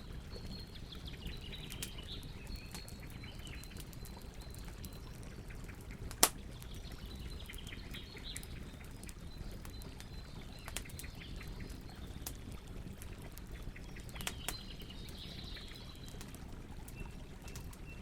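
Wood campfire burning with a steady low rumble and scattered crackles, and one loud sharp pop about six seconds in. Faint high chirps come and go in the background.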